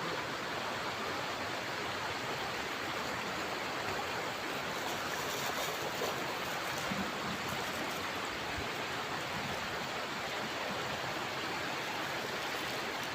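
A clear, shallow river flowing over stones, a steady rushing.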